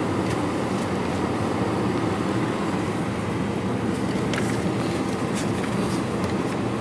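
Steady rumbling hum of an airliner heard from inside the passenger cabin before takeoff, with a few faint clicks and rattles.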